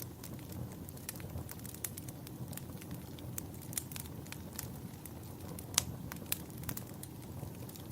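Campfire burning with a steady low rumble and frequent sharp crackles and pops from the burning wood, the loudest pops a little before six seconds in.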